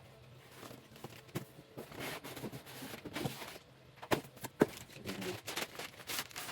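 Handling noise from unpacking a Shark cordless vacuum: rustling packaging and irregular sharp plastic clicks and knocks as its parts, such as the floor head, are taken out and fitted. The loudest clicks come a little after four seconds in.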